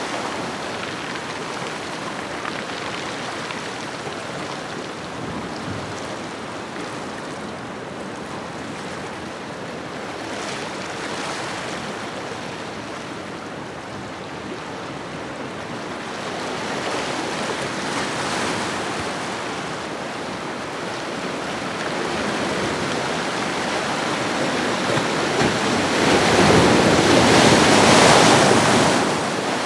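Ocean waves washing onto a shore: a continuous surf hiss that swells and eases slowly, with a bigger wave building near the end and then falling away.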